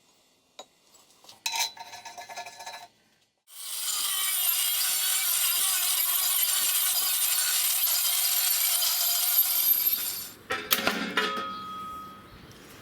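Workshop sounds: a few metal clinks, then a steady high hiss lasting about six seconds, then more clinking and clatter.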